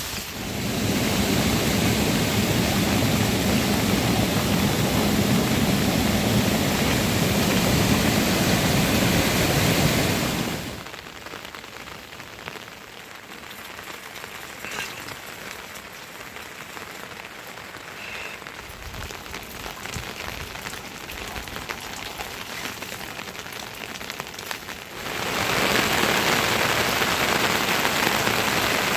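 Steady rain falling, heavy for the first ten seconds or so, then suddenly much lighter with a few scattered drips, and heavy again near the end.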